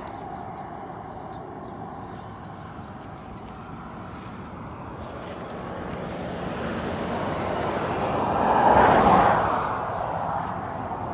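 Motorcycle passing by: its engine and road noise build slowly, peak loudly about nine seconds in, then fade away.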